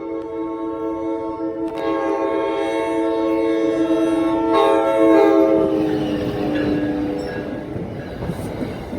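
An ALP-46 electric locomotive's Nathan Airchime K5LA five-chime horn sounds one long chord blast. The pitch sags slightly about halfway through, and the horn fades out near the end into the rumble of the train.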